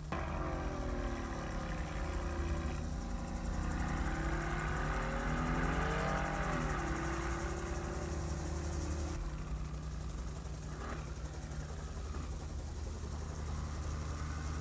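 Mercedes-AMG GT's twin-turbo V8 running, its pitch sweeping up and down during the first several seconds, then settling to a steadier drone.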